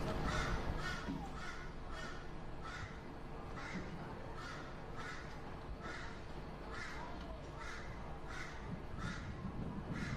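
A bird giving short, harsh calls over and over, evenly spaced at about three every two seconds, over a low background rumble and a faint steady hum.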